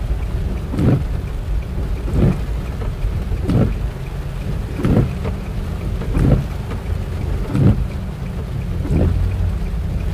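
Heavy rain on a car, heard from inside the cabin, with the windscreen wipers sweeping in a steady rhythm about once every second and a third. Under it is the steady low rumble of the car driving on a wet road.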